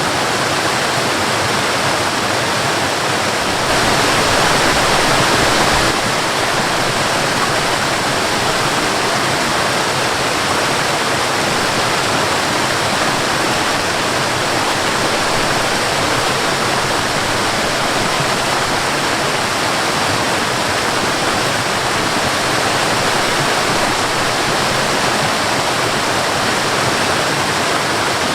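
Waterfall: a steady rush of falling water, a little louder for a couple of seconds about four seconds in.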